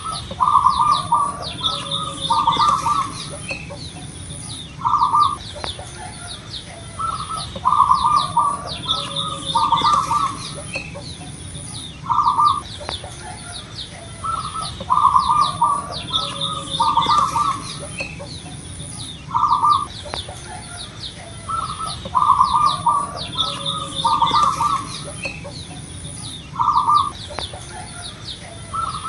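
Zebra dove (perkutut) cooing: short runs of quick, staccato coo notes, repeated every few seconds. Thin, high chirps from smaller birds and a steady high buzz with regular short breaks sound behind it.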